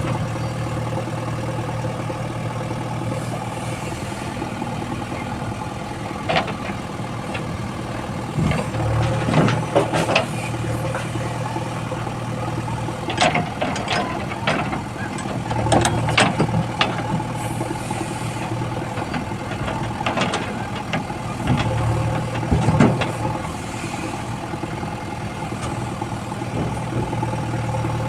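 Diesel engine of a JCB backhoe loader running steadily, with a series of short metallic clanks and knocks from the working machine and its load.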